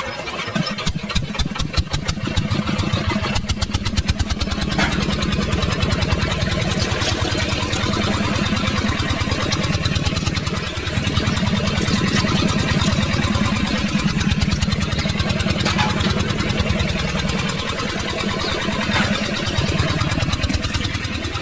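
A small engine running steadily with a fast, even putter, getting a little louder about four to six seconds in.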